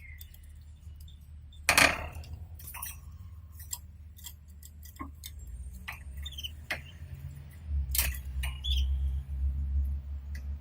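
Canaries moving about their cage: scattered sharp clicks and taps, a louder rustle about two seconds in, and a few short high chirps. A low rumble sets in for the last few seconds.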